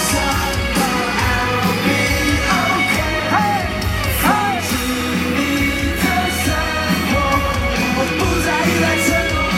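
Loud live pop-rock music with a sung vocal line over a steady drum beat.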